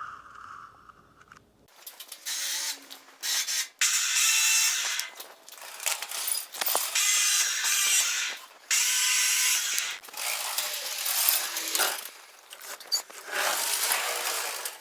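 Scraper blade scraping surplus white paint off a polished granite gravestone face, in a run of loud rasping strokes of about a second each, starting about two seconds in.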